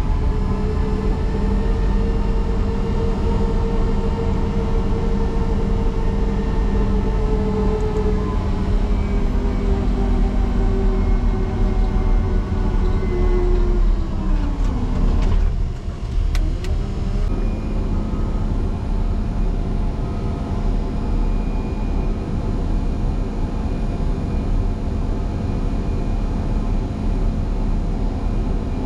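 Motor grader's diesel engine working hard under load as it rams a deep snow drift. Its pitch sags about halfway through, dips sharply for a moment, then settles into a steady, slightly lower drone.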